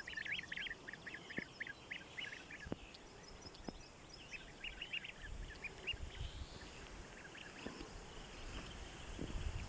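Goslings peeping: quick runs of short, high-pitched peeps, in two flurries, the second a few seconds in, with a low rumble under it.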